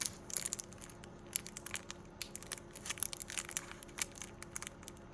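Plastic packaging crinkling and crackling as it is handled, in many small irregular crackles.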